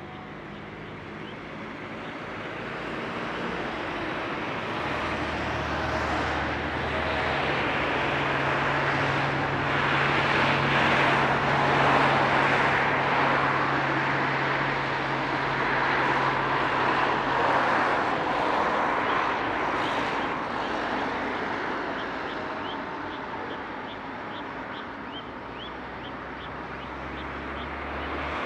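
A passing engine: a broad rushing drone with a low hum that swells to a peak about halfway through, then slowly fades. Faint short chirps come in near the end.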